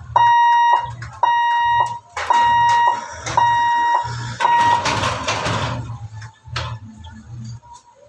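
Railway level-crossing warning alarm beeping about once a second with a steady high electronic tone. The beeps stop about five seconds in, as a rushing noise swells and fades.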